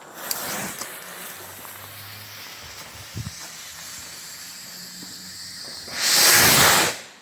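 Big Star Fireworks Red Thunder rocket: the lit fuse hisses steadily, then about six seconds in the rocket launches with a loud whoosh lasting about a second.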